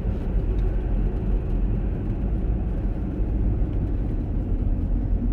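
Steady road and engine rumble inside a moving car's cabin, a low even noise with no marked change.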